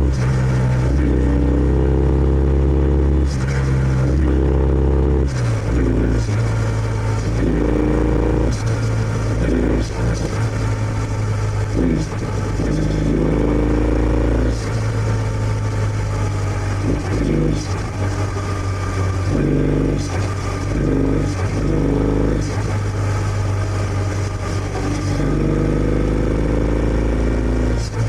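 Kawasaki W650's air-cooled parallel-twin engine through its stock exhaust while riding, heard from on the bike. It runs steadily and rises in pitch again and again as the throttle is opened, with shifts and throttle changes stepping the pitch.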